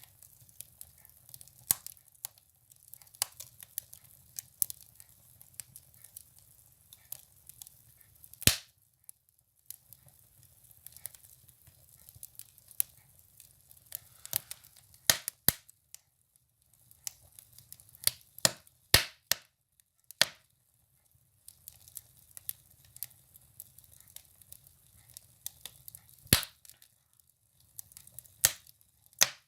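Firewood burning in a wood stove, crackling with irregular sharp pops, a few much louder than the rest, over a faint low rumble of the fire.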